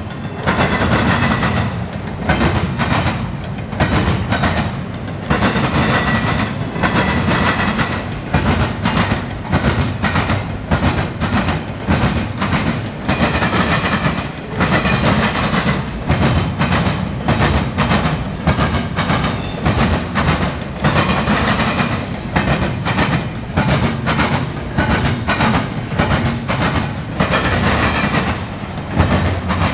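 Norfolk Southern double-stack intermodal freight cars rolling past: a steady low rumble with wheels clattering over rail joints in a continuous clickety-clack. A faint high wheel squeal comes and goes twice.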